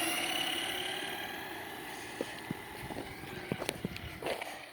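Remote-control toy truck's electric motor whining at speed, fading steadily as it drives away. A few light clicks and knocks come in the second half.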